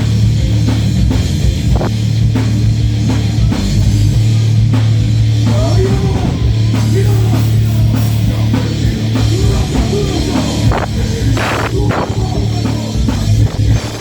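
Heavy metal band playing live and loud: drum kit hits over electric guitar and a low note held steady underneath.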